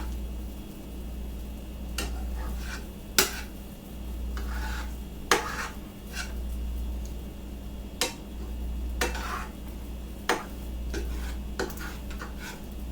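A utensil stirring food in a pan while stir-frying, with sharp clinks against the pan every second or two over a steady low hum.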